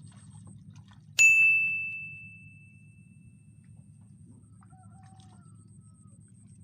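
A single bright metallic ding, struck once about a second in and ringing out as it fades over about two seconds.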